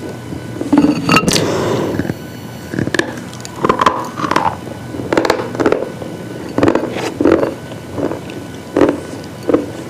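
Brittle pieces being crunched: a dense crackling crunch about a second in, then a string of separate sharp crunches about one or two a second, over a low steady hum.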